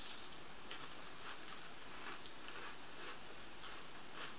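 Chewing a crisp round cheese cracker: a string of faint, irregular crunches in the mouth after the bite.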